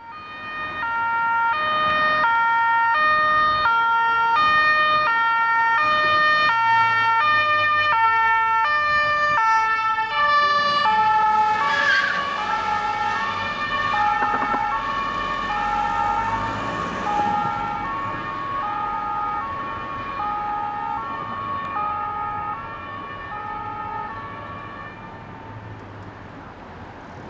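Electronic two-tone Martinshorn siren on a VW Sharan emergency car, switching steadily between a high and a low tone. About eleven to twelve seconds in the pitch drops as the car passes, with a brief squeal of tyres, and the siren then fades as the car drives away.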